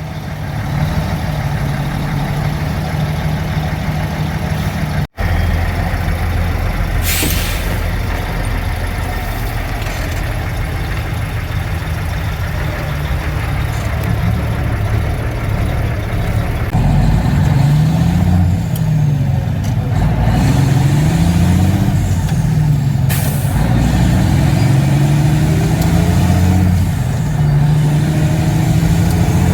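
Mack dump truck's diesel engine under load, pulling through the gears: the engine note repeatedly climbs and drops as it shifts up, with short hisses of air about seven seconds in and again later.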